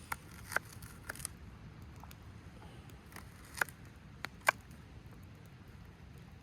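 Handling of cooking utensils at a pot: a handful of short, sharp clicks and light taps at uneven intervals, two of them louder past the middle.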